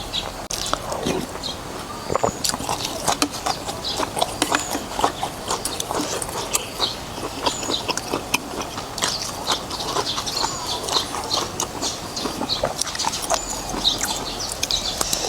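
Close-miked eating sounds of noodles in beef soup: chewing and slurping, with many small irregular wet mouth clicks.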